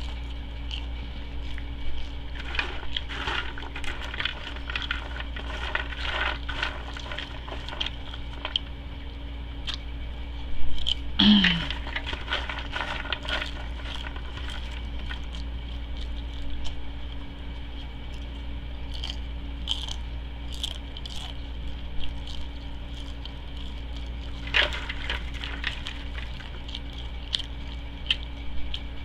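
Close-miked chewing of a fish sandwich: irregular wet mouth clicks and smacks over a steady low hum. A brief louder mouth sound comes about eleven seconds in.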